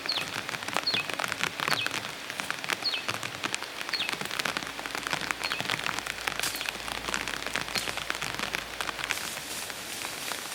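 Rain pattering steadily as dense, irregular drops. Short high chirps, each falling in pitch, repeat about once a second through the first half.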